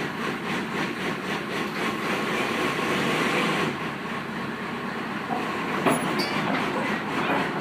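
Mini excavator running and moving, a steady mechanical rattle and clatter with a faint squeal, and one sharp knock about six seconds in.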